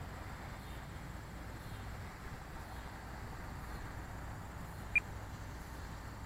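Wind buffeting the microphone outdoors, a steady low rumbling noise with no distinct engine or motor note. A single short high chirp sounds about five seconds in.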